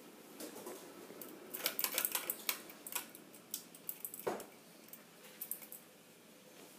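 Rapid, irregular light clicks and metallic jangling over a faint steady hum, with one duller knock about four seconds in.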